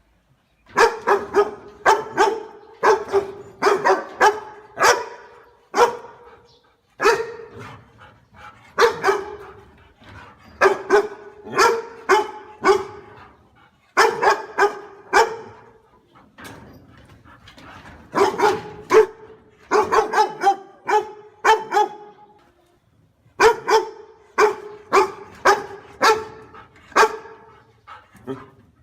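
A dog barking in quick volleys of several barks a second, each volley lasting a few seconds, with short pauses between them.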